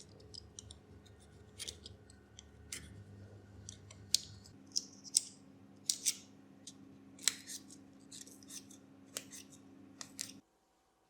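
Scissors cutting, a series of sharp, irregular snips over a low steady hum. The sound cuts off abruptly about ten seconds in.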